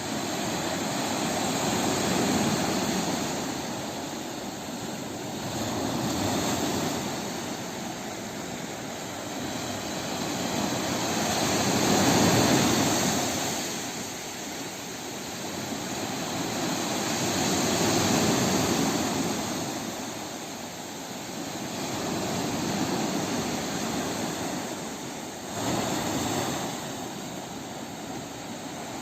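Sea surf: waves washing in, the rushing noise swelling and falling away every five or six seconds, with a sharper wave break near the end.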